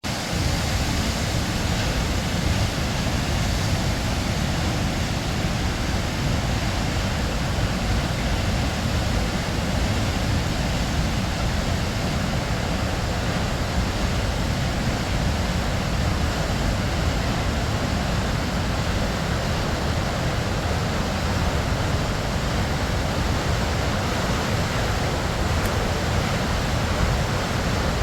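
Waterfall: a steady, full rush of falling water with a deep low rumble.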